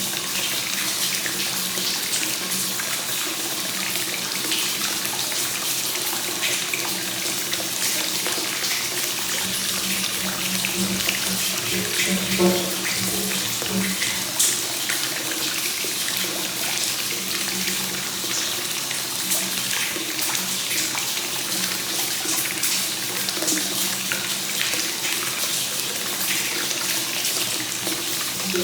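Hot spring water flowing continuously from the spout into a bath, a steady splashing pour, with a couple of brief louder splashes about halfway through.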